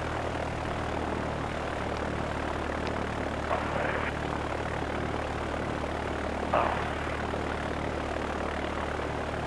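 Light aircraft's piston engine and propeller droning steadily, heard inside the cockpit in flight. Two brief louder noises break in, the louder one about six and a half seconds in.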